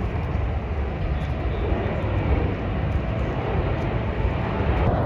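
Jet engine noise from Snowbirds Canadair CT-114 Tutor jets in flight: a steady, broad rumble with no distinct tones.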